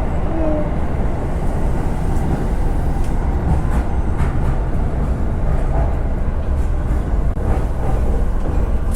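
Train running on rails: a steady low rumble with a few faint clacks.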